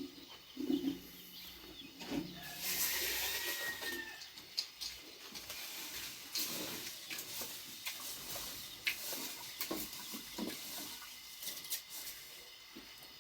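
Rain falling steadily, with scattered clicks and knocks over it and a louder rush of noise about three seconds in.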